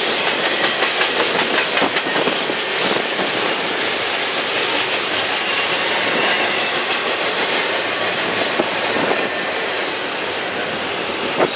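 Double-stack intermodal well cars rolling past at close range: steel wheels running on the rail with a steady rumble and repeated clickety-clack, and one sharp knock near the end.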